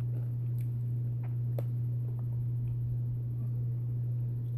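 A steady low hum throughout, with a few faint crunches of a Takis Fuego rolled tortilla chip being chewed in the first couple of seconds.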